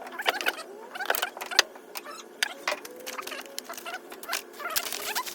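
Metal hand tools clinking and clattering as they are picked up and set down while a toolbox is sorted: a steady run of sharp clicks and small knocks, with faint squeaky tones underneath.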